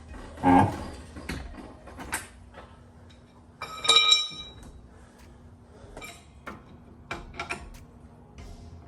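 Metal tools and parts clinking and knocking in scattered sharp clicks, with one ringing metallic clink about four seconds in.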